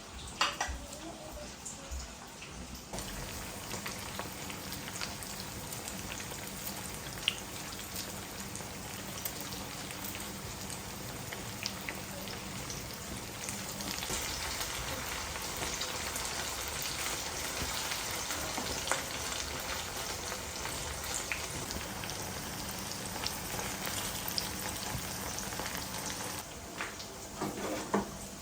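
Food frying in hot oil in a pan, a steady sizzle with fine crackling that grows a little louder about halfway through. A few knocks come near the end.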